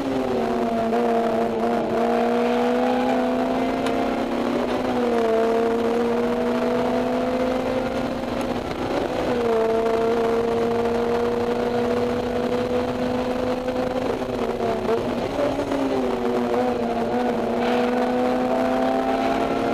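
Honda S2000's four-cylinder engine through a Mugen header and EVS Tuning 70-SSP exhaust, pulling high in the rev range on track. The note is mostly steady, with slow slight sags and a few brief breaks where the pitch jumps, as at gear changes. It is heard from inside the cabin with the windows open.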